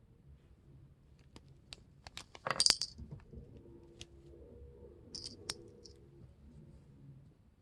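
Plastic packaging of a candy toy crinkling and crackling as it is handled, in scattered sharp clicks. A louder dense burst of crackling comes about two and a half seconds in, and a shorter one a little after five seconds.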